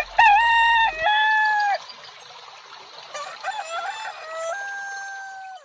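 A rooster crowing twice. The first crow ends in under two seconds; the second starts about three seconds in and is held until it cuts off abruptly.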